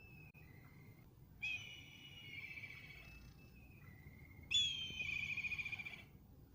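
A bird giving a series of clear whistled calls. Two longer calls come about a second and a half in and about four and a half seconds in, the second one louder and wavering in pitch, with shorter calls between them.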